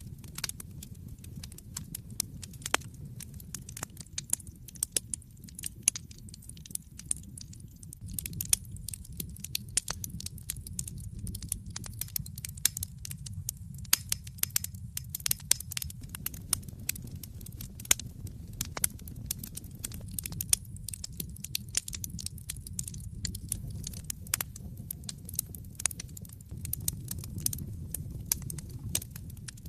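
Wood fire in an open fireplace crackling: many sharp, irregular pops and snaps over a steady low rumble of the burning logs.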